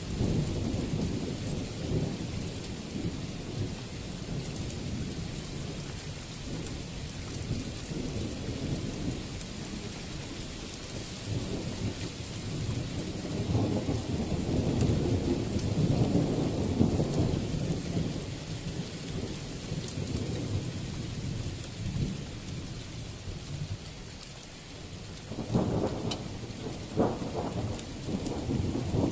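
Thunder rolling and rumbling over steady rain, swelling midway through, with a few sharp cracks near the end.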